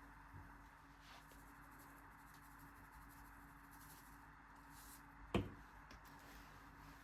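Quiet room tone with a steady low hum, and a single sharp knock about five seconds in.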